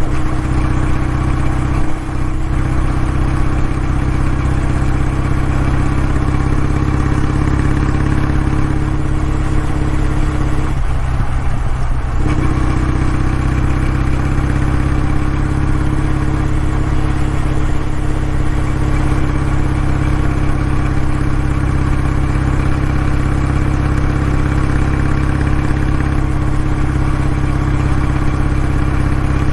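Kawasaki W650's air-cooled parallel-twin engine and exhaust running at a steady engine speed, with a short break in the note about eleven seconds in before it settles again and slowly rises.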